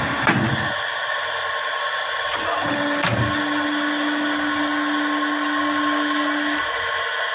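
Hydraulic press's motor and pump running with a steady whir. A few sharp clicks sound near the start and again around three seconds in. A steady low hum comes in at about two and a half seconds and stops at about six and a half.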